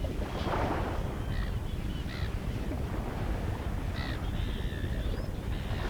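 Several short, harsh bird calls at irregular intervals over a steady low rumble.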